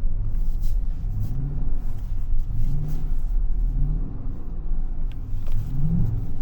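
A truck engine revving up and down over and over under throttle while the truck slides sideways through a turn on snow. The pitch rises several times, most strongly near the end, over a steady low rumble.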